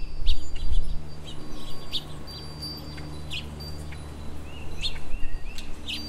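Small songbirds chirping: short, sharp calls repeated several times, with a steady low hum beneath and a low rumble in the first second.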